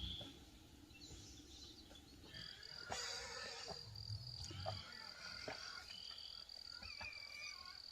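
Faint forest ambience: a high, evenly pulsing call starts about two seconds in and runs on steadily, with scattered short chirps and clicks around it.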